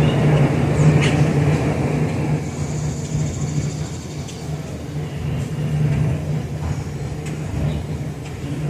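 Jet engines of a departing Airbus A320 giving a steady low rumble that slowly fades.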